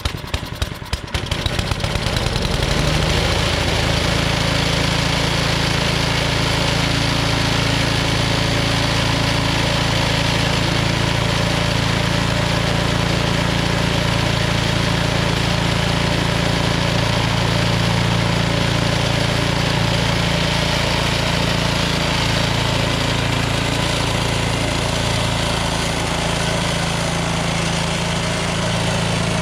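Cub Cadet 30-inch snowblower's 13 HP Tecumseh Snow King engine, cold-started on choke at full throttle: it cranks in rapid knocks, catches about a second or two in, and settles into a steady run.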